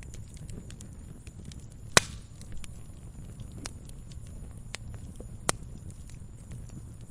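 Wood fire burning in a fireplace: a low steady rumble of flames with many small crackles and two loud pops, the sharpest about two seconds in and another about five and a half seconds in.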